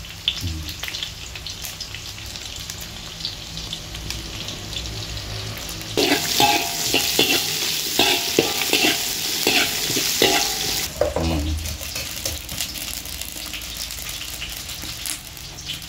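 Lemongrass, shallots, garlic, chillies and kaffir lime leaves sizzling in a little oil in a wok while being stirred. The frying and stirring grow louder for about five seconds in the middle, then settle back to a steady sizzle.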